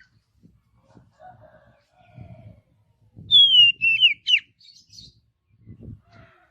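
Oriental magpie-robin singing: one loud whistled phrase about halfway through that slides down in pitch and ends in sharp, quick down-swept notes, followed by a few higher chips. Soft low rumbling noises come and go throughout.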